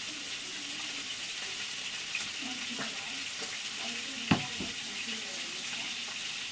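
Onions frying in oil in a pot, a steady sizzle, with one sharp knock about four seconds in.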